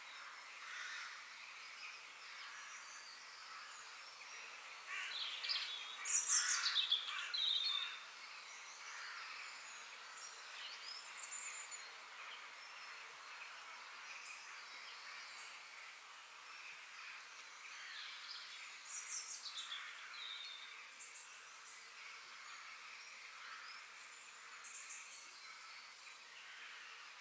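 Birdsong in a natural outdoor soundscape: several birds chirping and calling over a soft steady hiss, with a louder run of quick calls about six seconds in and another cluster of calls near nineteen seconds.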